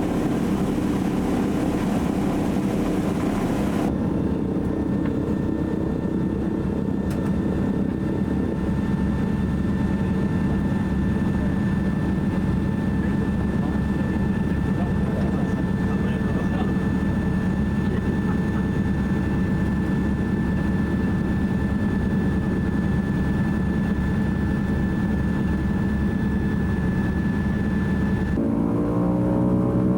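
Twin Pratt & Whitney R-1830 radial engines of a DC-3 running steadily, heard from inside the passenger cabin as a deep, even drone. Near the end the engine tones rise in pitch.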